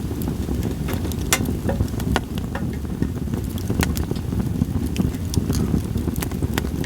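Split sawtooth oak (kunugi) logs crackling in a campfire: irregular sharp pops and snaps, some louder than others, over a steady low rumble.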